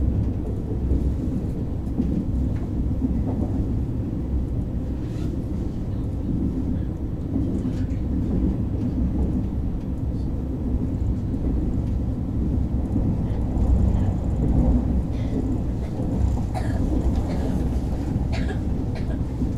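KTX train heard from inside the passenger carriage as it runs along the line: a steady low rumble with a few faint clicks and knocks from the wheels and carriage.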